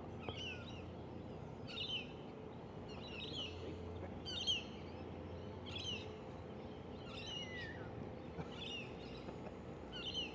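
A bird singing the same short phrase over and over, about every one and a half seconds: quick, high, falling notes, over a faint steady outdoor background.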